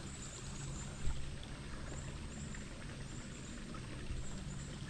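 Shallow creek water running and trickling steadily, with a brief low thump about a second in.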